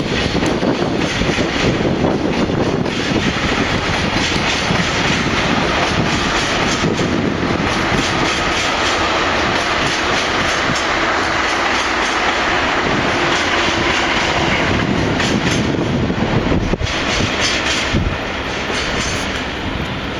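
Freight train passing, its wheels clacking over rail joints above a steady loud rumble. The noise eases a little near the end.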